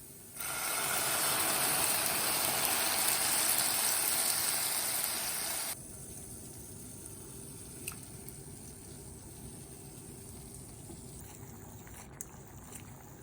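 Water gushing from a running tap for about five seconds. It starts and stops abruptly, and a quieter steady background follows.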